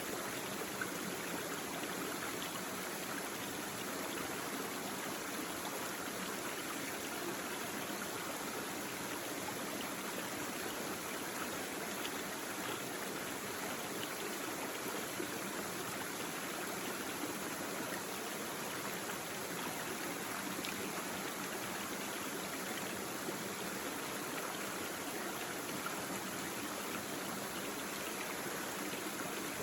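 Small stream babbling over rocks, a steady, even rush of flowing water with faint splashes.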